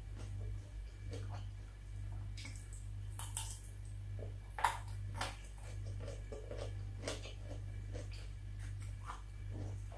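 Close-miked chewing of a raw cucumber: irregular crisp crunches and wet mouth clicks, a sharper crunch about five seconds in, over a steady low electrical hum.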